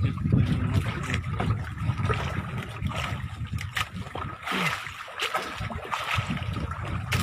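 Water splashing and sloshing around a boat with a choppy low rumble, while a large shark is held alongside to be released.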